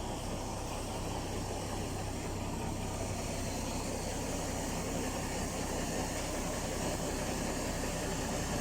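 Narrow-gauge forest railway train running steadily: a continuous drone of the Mk48 diesel locomotive's engine and the wheels rolling on the rails, growing slightly louder toward the end.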